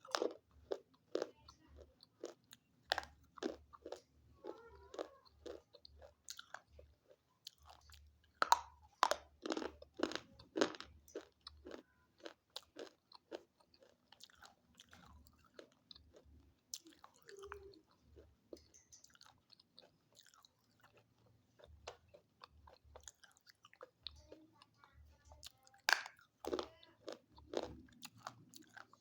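Close biting and chewing of hard, chalky pieces: sharp crunches and snaps, one after another, with the loudest clusters about a third of the way in and again near the end.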